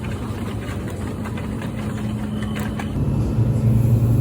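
Steady low engine hum, like a vehicle running; it turns louder and deeper about three seconds in.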